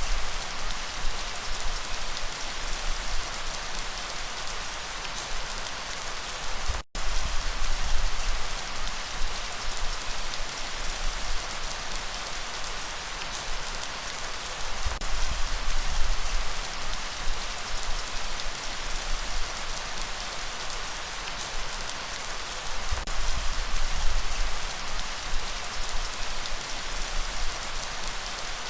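Steady rain falling and pattering on surfaces, with low swells that come and go. The sound cuts out for an instant about seven seconds in.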